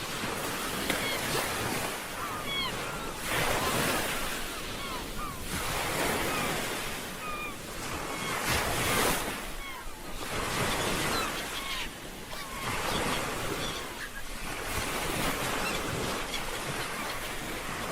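Ocean waves breaking and washing on a beach, the surf swelling and ebbing every two to three seconds, with short faint chirps scattered over it.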